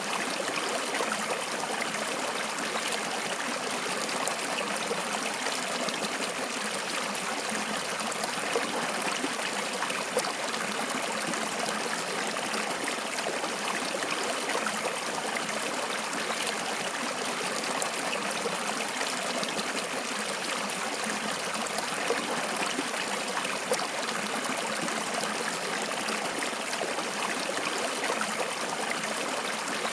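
Water flowing in a stream, a steady rushing with fine trickling and splashing detail.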